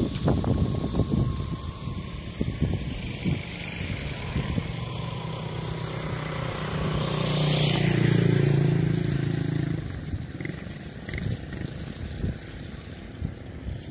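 A motor vehicle drives past: its engine hum swells about halfway through, peaks, then fades away. Irregular knocks are heard in the first few seconds.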